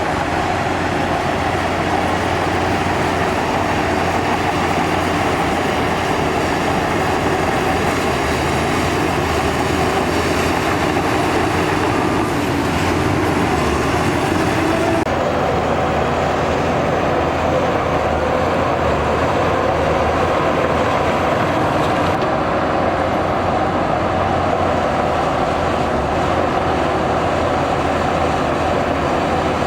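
Heavy diesel earthmoving machine running steadily under work. Its engine note steps up about halfway through.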